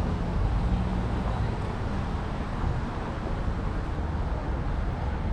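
Wind rumbling on the microphone and road noise from traffic while riding a bicycle along a city street: a steady, even rumble with hiss.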